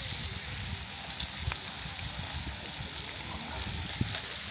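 Food sizzling in a frying pan, a steady hiss with a few small crackles, over an uneven low rumble.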